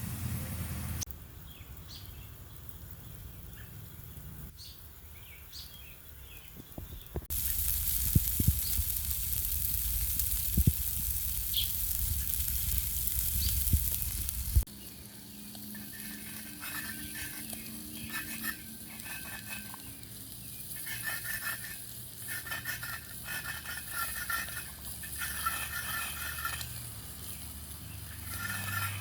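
Shoulder steaks sizzling in an antique pan over a campfire's hot coals, a steady frying hiss. The sound changes abruptly between edited clips and is loudest and brightest in the middle stretch.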